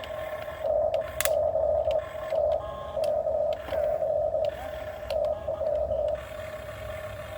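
Dump truck's reversing alarm beeping over and over, a single high tone that pulses about once a second, over the low rumble of the diesel engine.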